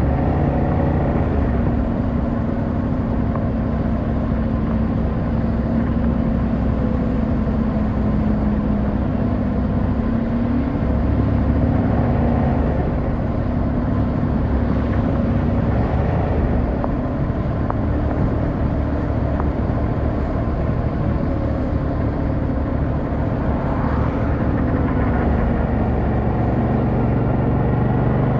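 Yamaha MT-07's 689 cc parallel-twin engine running under way at a fairly steady pitch with small rises and falls, over rushing wind noise; the revs drop near the end.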